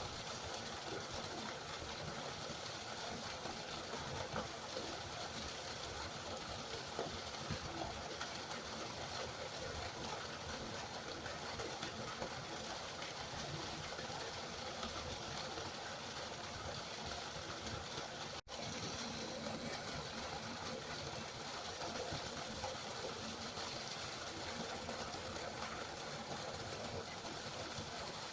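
Steady rushing of a flowing river, an even wash of water noise with no change in strength. It drops out for an instant about two-thirds of the way through, then carries on as before.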